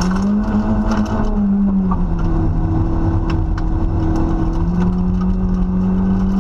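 Rally car engine heard from inside the cabin, pulling hard at stage pace. Its note rises, drops about two seconds in at a gear change and holds steady, then climbs again near the end, with occasional sharp ticks over a steady low rumble.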